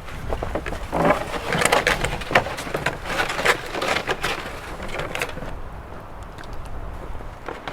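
Camping gear being handled and packed up: irregular rustling and scraping with short knocks and clicks, busiest in the middle and thinning out toward the end.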